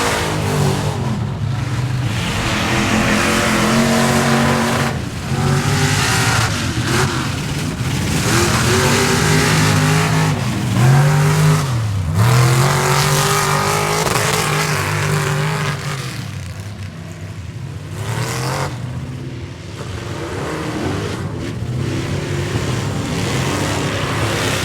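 Square-body Chevy mud truck's engine running at high revs. Its pitch drops and climbs again several times, once sharply about halfway through, as the throttle is lifted and reapplied; it is a little quieter for a few seconds past the middle.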